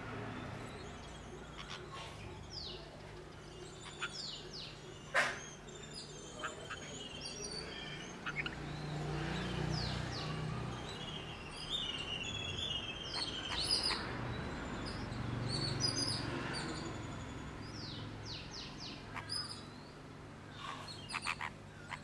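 Birds chirping with short, high, falling notes, several coming in quick runs of three or four, over a low steady hum; a sharp click about five seconds in is the loudest sound.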